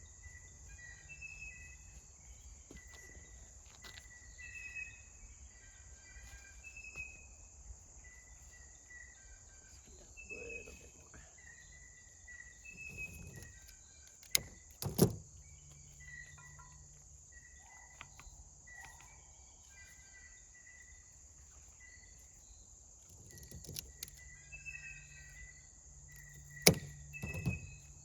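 Birds chirping over and over in short calls, over a steady high insect drone. A few sharp knocks stand out, about halfway through and again near the end.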